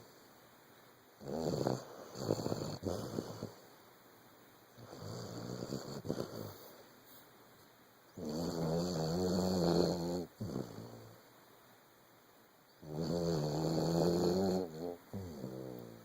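Vizsla dog snoring in her sleep: a series of separate snoring breaths every few seconds, the two longest and loudest in the second half with a steady low pitch.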